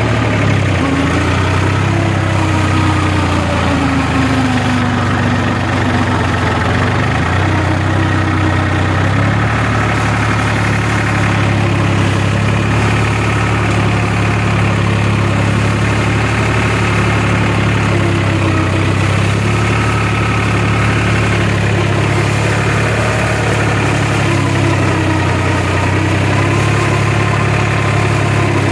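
New Holland tractor's diesel engine running steadily with a deep hum, its pitch wavering slightly a few seconds in.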